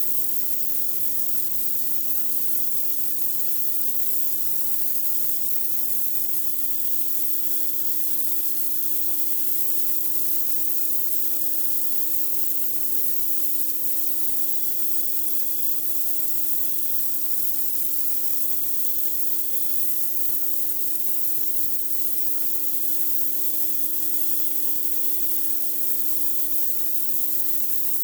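Pressure washer blasting a high-pressure water jet onto a concrete driveway, a steady hiss with no breaks, over the machine's motor humming steadily underneath.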